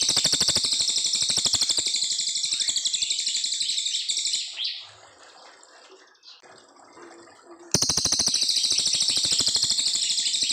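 Cililin coklat songbird singing a long, very rapid high-pitched trill that breaks off about four and a half seconds in and starts again near the end after a quiet pause.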